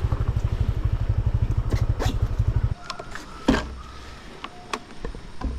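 Motorbike engine idling with a quick, even pulse, then switched off about two and a half seconds in; a few clicks and a knock follow.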